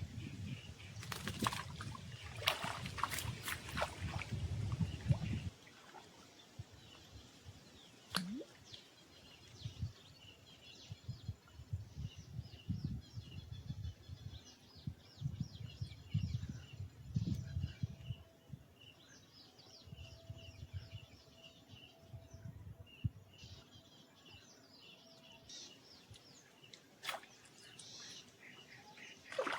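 Outdoor ambience: a low rumble on the microphone, with a few clicks, for the first five seconds or so, stopping suddenly. Faint bird chirps and ticks and occasional low gusts follow.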